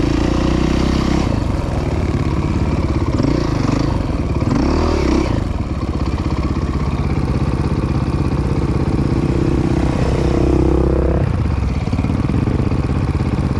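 Dirt bike engine running under load while riding a sandy trail, its pitch rising and falling as the throttle changes, with a brief rev around four to five seconds in and another near ten seconds in.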